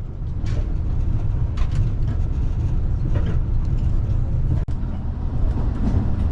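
Steady low rumble of the Yufuin-no-mori diesel train running along the line, heard from inside the carriage. It drops out for an instant about two thirds through.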